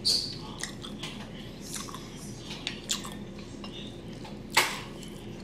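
A person eating close to the microphone: chewing and mouth sounds, with a few short clicks and one sharper, louder click about four and a half seconds in.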